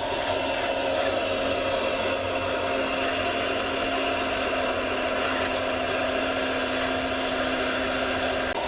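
Radio-controlled model machinery running: a steady electric whine with a constant pitch.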